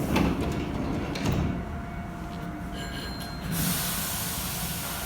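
Hankyu 8000-series electric train running on the track, a low rumble with a few sharp clicks in the first second and a half. A few thin high tones come in near three seconds, and a hiss starts suddenly about three and a half seconds in and holds.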